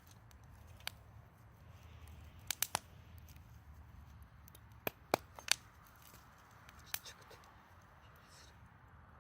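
Wood fire crackling: irregular sharp pops and snaps of burning wood, a few in quick clusters, over a low steady rumble.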